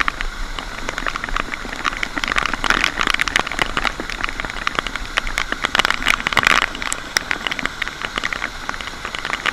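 Steady rain, with a dense crackle of drops striking close to the microphone.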